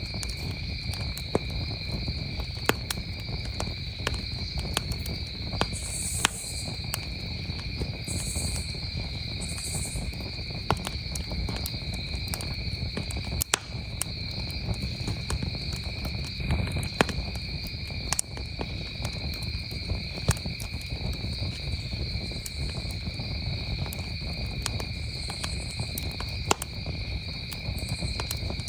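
Campfire crackling, with sharp pops at irregular moments, over crickets chirring steadily and continuously at a high pitch.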